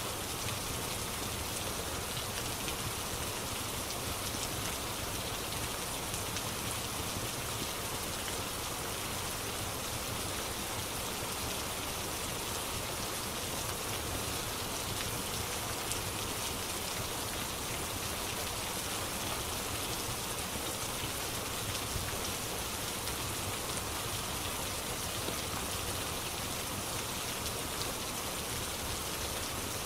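Steady rain falling: an even hiss of drops that does not change.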